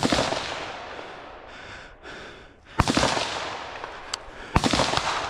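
Three gunshots, at the start, about three seconds in and near the end, each followed by a long echoing tail.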